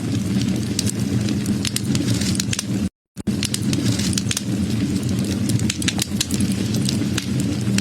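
Wood fire burning: a steady low rumble of flames with frequent sharp crackles and pops from the burning wood. The sound cuts out completely for a moment about three seconds in.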